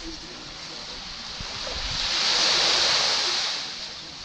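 Small sea waves breaking and washing up a beach at the water's edge: one wave swells up about a second in, is loudest around two to three seconds, then hisses back down and fades near the end.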